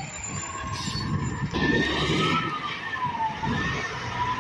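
Road traffic with heavy trucks passing: engine and tyre noise swells about a second and a half in. Over it runs a high, thin tone that slowly rises and falls.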